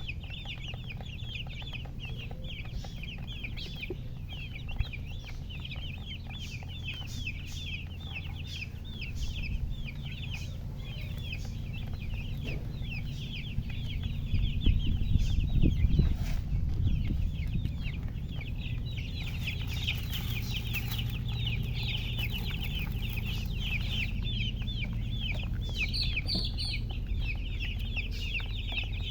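A brood of baby chicks peeping, many short high chirps overlapping in a constant stream, over a low rumble that grows louder about halfway through.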